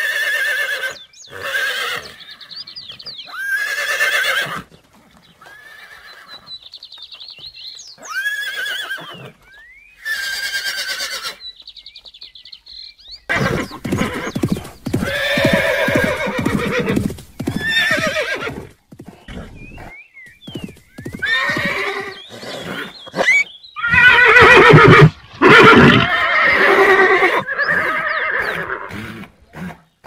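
Horses neighing and whinnying repeatedly, several short separate calls at first. About halfway through, longer and louder whinnies come in over the fast hoofbeats of galloping.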